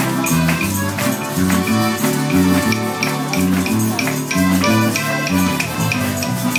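Live Mexican popular music from a small band of guitars, accordion and tambourine: an instrumental passage with bass notes changing about twice a second under a steady percussive beat.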